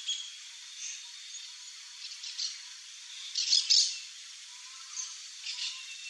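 Birds chirping: several short, high calls scattered over a few seconds, the loudest a quick pair of notes a little past the middle.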